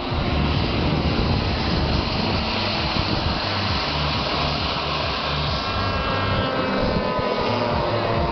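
Remote-control foam toy aeroplane's electric motor and propeller running steadily, with a faint whine that drifts down in pitch in the last couple of seconds.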